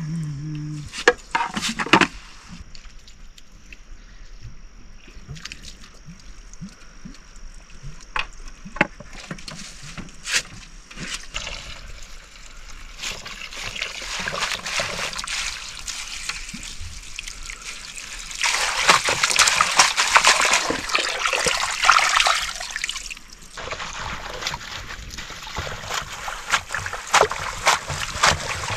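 Water splashing and trickling in a vessel, with a few sharp knocks near the start; the splashing builds in the second half and is loudest in two long stretches.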